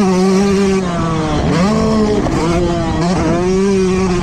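Motocross bike engine running at high revs, its pitch holding steady, then dropping and climbing back up twice, about a second in and again halfway through.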